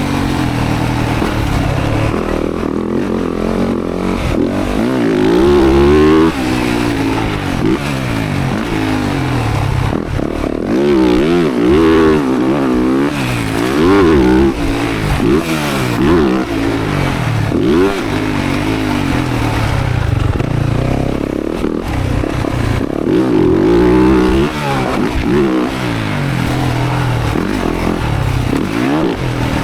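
Motocross dirt bike engine revving up and backing off over and over, its pitch climbing and falling every second or two as the throttle is opened and closed.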